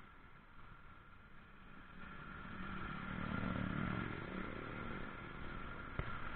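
A motor vehicle engine passing by, growing louder to a peak about three seconds in and then fading. A steady high-pitched hum runs underneath, and there is a single sharp click near the end.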